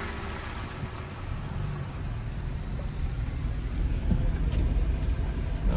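Pickup truck driving, heard from inside the cab: a low engine and road rumble that grows gradually louder.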